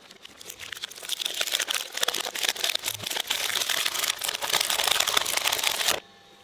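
Shredder chewing through material with a dense crackling crunch. It builds up over the first couple of seconds and cuts off abruptly about six seconds in.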